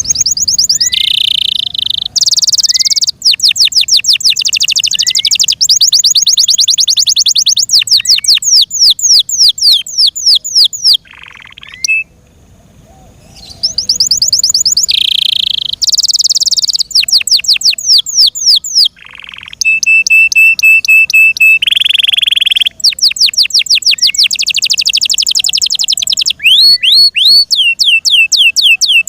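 F1 Yorkshire canary singing loudly: phrases of very fast repeated notes and trills, with a short pause about halfway through and a run of clipped, even-pitched notes after it.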